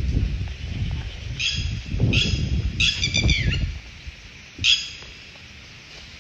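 A bird calling four times in short, harsh notes, the third ending in a falling slur. Under the first three is a low rumble that drops away about three and a half seconds in.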